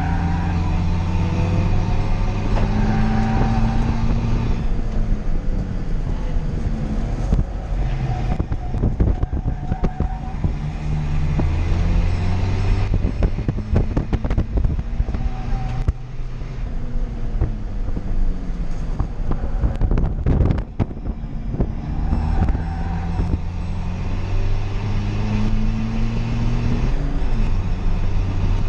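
Toyota Yaris D-4D race car's 1.4-litre four-cylinder turbodiesel heard from inside its stripped cabin. It pulls up in pitch under acceleration, then drops back at gear changes and lifts, again and again. Frequent knocks and rattles come from the bare shell.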